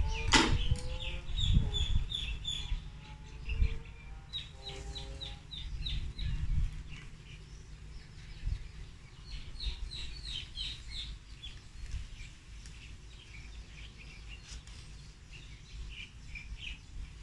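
Small birds chirping in quick runs of short, high notes, coming and going in several bursts. Under them are low knocks and rustling from hands working at a wooden table, loudest near the start.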